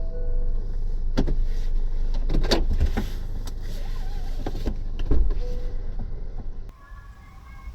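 Low rumble of a vehicle with several sharp clunks and knocks, cutting off abruptly near the end, after which faint high calls are left.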